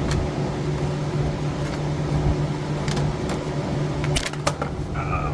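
A steady low mechanical hum, with a few sharp light clicks as the oil filter is handled.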